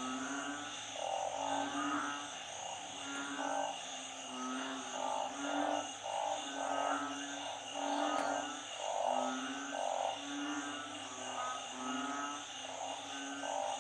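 Chorus of narrow-mouthed frogs (อึ่ง) and small frogs (เขียด) calling in flooded ground, overlapping short calls about one to two a second, over a steady high-pitched drone.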